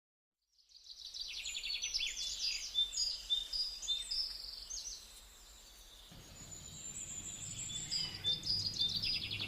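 Several small birds chirping and trilling over one another in quick, high-pitched runs, starting about half a second in. A low steady hum joins around six seconds in.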